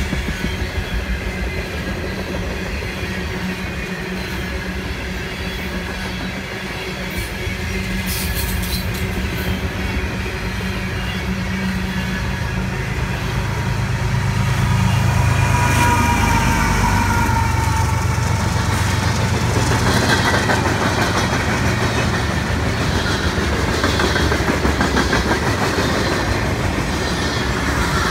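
Freight train passing close by: steel wheels rattle and click over the rail joints as refrigerated boxcars roll past. About halfway through, a mid-train CSX diesel locomotive (distributed-power unit) goes by. Its engine drones low, the sound gets louder, and a whine falls in pitch as it passes. After it, the cars clatter on loudly.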